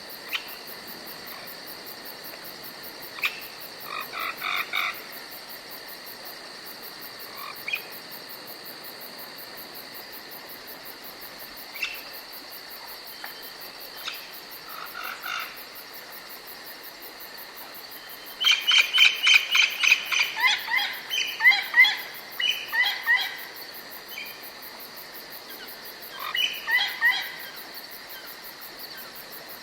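Forest ambience: a steady high-pitched insect trill throughout, with birds calling in short bursts of quickly repeated notes. The loudest is a longer run of rapid calls past the middle.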